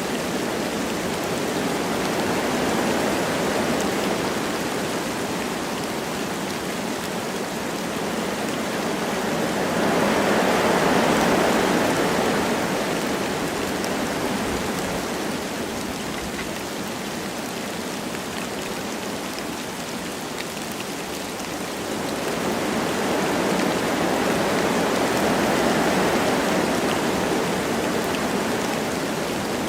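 Wind blowing through forest trees with light rain falling, a steady rushing hiss that swells in three slow gusts and eases off between them.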